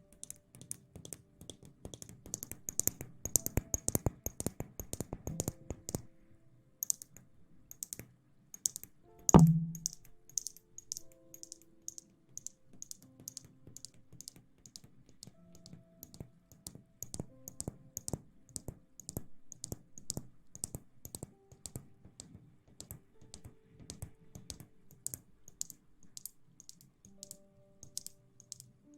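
Close-miked ASMR trigger sounds: rapid light tapping and crackling clicks, at times thick and fast, with one loud thump about nine seconds in. Faint background music sits underneath.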